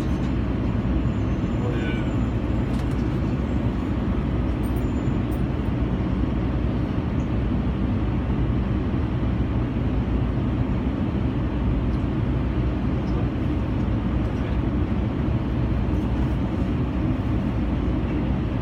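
Steady low rumble of a passenger train car in motion, heard from inside the car.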